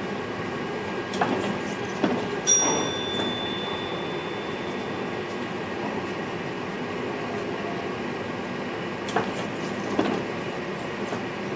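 VIRM double-decker electric train heard from its cab while running, with a steady rumble and a few sharp knocks from the wheels. A single ringing chime sounds about two and a half seconds in and fades away over a couple of seconds.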